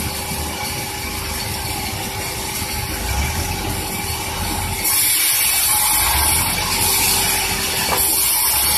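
Sawmill saw running and cutting through a large durian log, with a steady machine hum under it. About five seconds in it gets louder and a harsh hiss of cutting rises over the hum.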